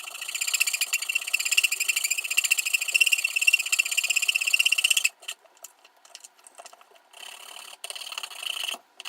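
Small electric drill motor running with a rapid buzzing rattle. It stops about five seconds in, leaving a few clicks, then runs again more quietly about two seconds later.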